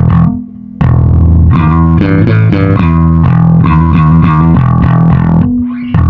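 Yamaha SBV-550 electric bass played through a Line 6 Bass POD modeler. It starts on a held note and stops briefly, then plays a run of quickly changing notes, with a held note near the end.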